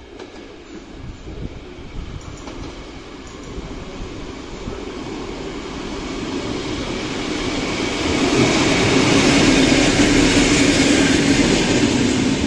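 Passenger train approaching and running through the station, its rumble and wheel-on-rail noise building steadily and loudest over the last few seconds as it passes close by.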